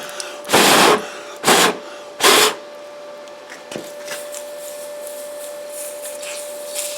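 Four short bursts of spraying hiss as the hot weld beside the shaft bearing is cooled down, then a fainter steady hiss with a thin steady whine.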